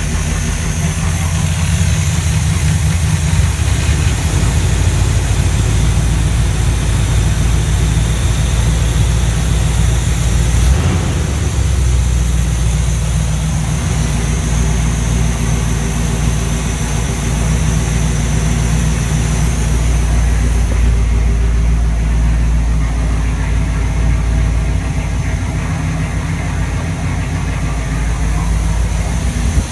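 1982 Pontiac Trans Am's carbureted V8 idling steadily, a cold engine warming up just after being started.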